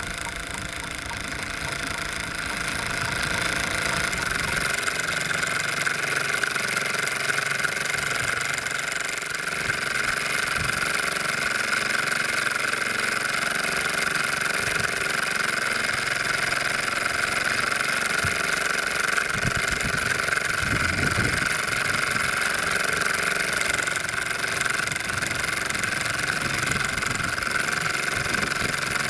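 Bowman M135 live-steam model engine running steadily at speed, a continuous fast whirring chuff with steam hiss.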